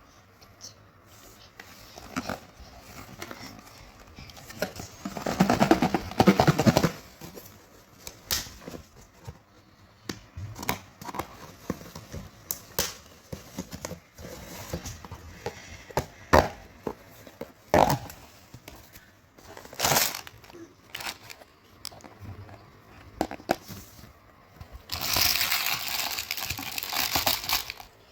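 Chocolate wrappers and packaging crinkling and being torn open by hand, with scattered small clicks and taps. There is a louder rustle about five seconds in and a longer stretch of crinkling near the end.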